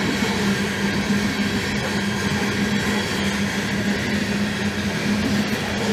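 Freight train of coal cars rolling past on the rails: a steady rumble of wheels on track with a steady low hum underneath.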